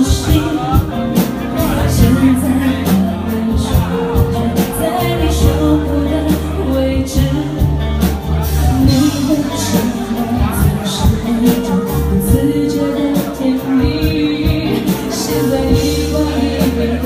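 A pop song performed live: a singer over a band backing with drums and sustained bass notes.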